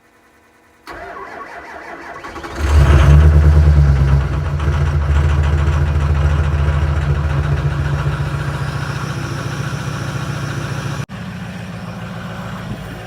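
Truck engine cold-starting: about a second and a half of cranking, then it catches with a loud flare in revs and eases down to a steady idle. Near the end the sound breaks off abruptly and resumes at a lower steady idle.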